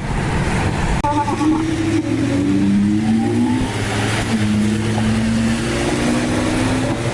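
Straight-piped Acura TL V6 droning steadily at cruising speed, heard from inside the car, with an abrupt break in the sound about a second in.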